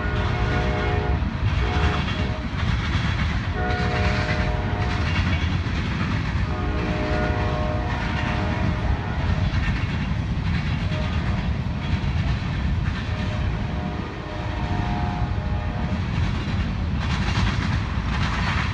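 Freight train running with a steady low rumble while its locomotive's horn sounds a chord in repeated blasts of one to two seconds each.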